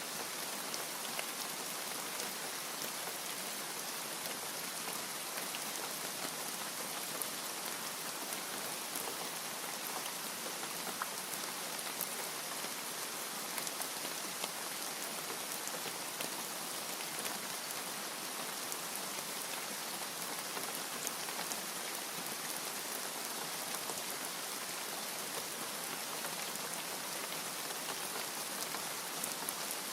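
Steady rain falling, an even hiss with many fine drop ticks and no rise or fall.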